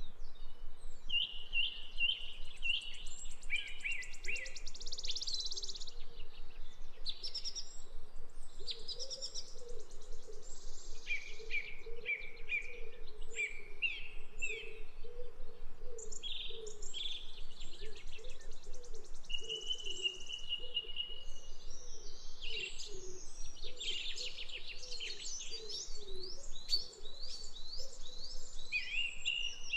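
Several birds chirping and calling over one another in short high chirps and trills, with a lower, softer call repeating steadily underneath.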